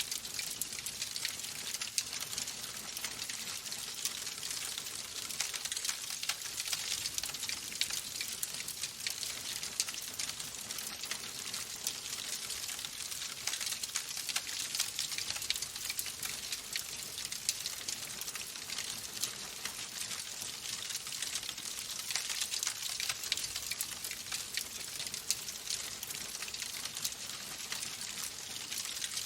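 Wood fire in a fireplace crackling, with a steady hiss and a dense run of small sharp pops and snaps throughout.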